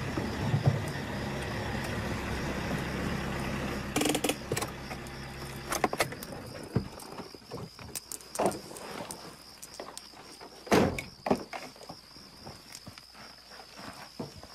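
A car engine idling, switched off about six seconds in, followed by a few separate knocks and thumps.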